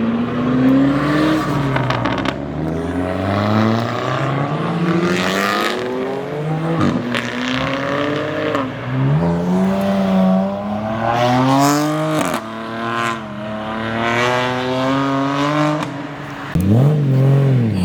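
Sports car engines revving and accelerating away, the pitch climbing and dropping repeatedly as they rev and shift. There is a sharp blip of revs near the end.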